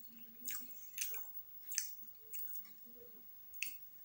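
A person chewing food with the mouth close to the microphone, making wet smacking sounds: a handful of short, sharp smacks spaced about half a second to a second apart.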